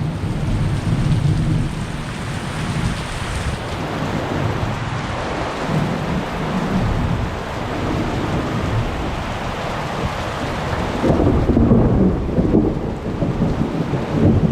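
Heavy rain falling steadily with thunder rumbling through it. The thunder swells louder about eleven seconds in.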